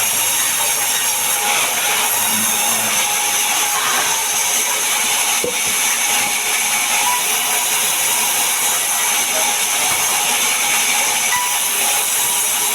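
Power saw cutting mahogany wood: a loud, steady, unbroken noise.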